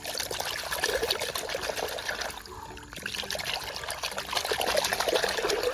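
Water trickling and splashing as a muddy toy animal is washed by hand, easing briefly about halfway through.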